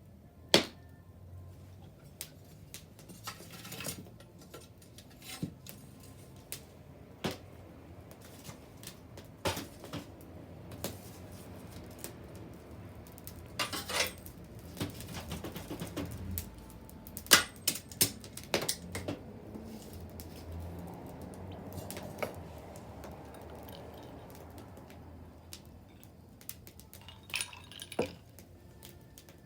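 Wood bonfire crackling: irregular sharp pops and snaps over a low, steady hiss of flames, with a cluster of louder pops around the middle.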